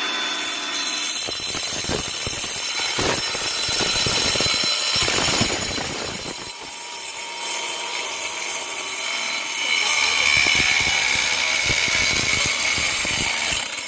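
Homemade 12 V mini breaker driven by a 775 DC motor, running and hammering, with a high whine and irregular knocks throughout.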